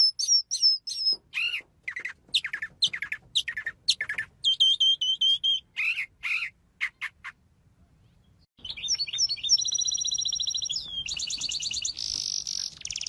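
A songbird chirping and singing in quick, varied whistled notes and sweeping chirps. After a short pause about eight seconds in, it goes on with fast trills and buzzy rattling phrases.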